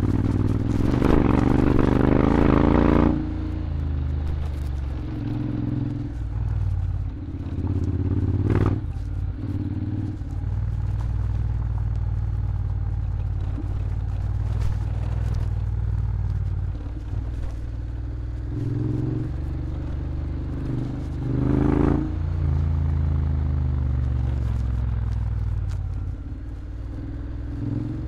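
Honda X-ADV 750 scooter's parallel-twin engine running under way through an Akrapovic exhaust, its note rising and falling with the throttle, louder for the first few seconds and again about 22 seconds in. A few short knocks and clatters sound over it, the sharpest about eight and a half seconds in.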